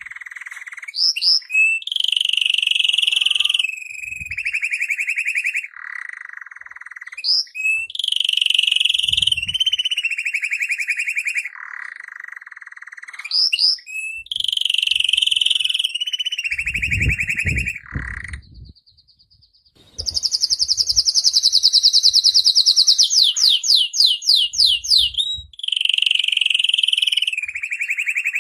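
Male canary singing: long rolling trills held at one pitch, then switched to another, broken by quick rising whistles. A similar phrase comes three times, then a long high trill and a run of fast falling notes near the end.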